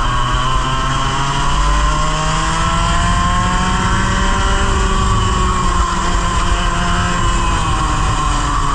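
Onboard sound of a 100cc racing kart's engine under way: the engine note climbs steadily for about five seconds as the kart accelerates, then falls away as it lifts off, with tyre and wind noise throughout.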